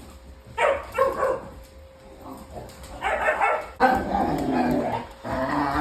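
Dogs and puppies at play, barking and yipping in several bursts about a second in and again through the second half.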